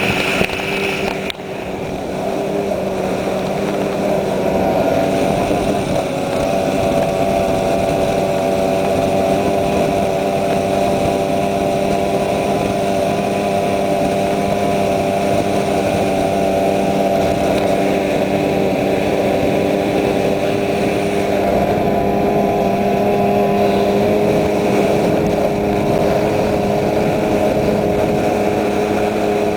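Thundercat inflatable race boat's outboard motor running, picking up over the first few seconds and then holding steady.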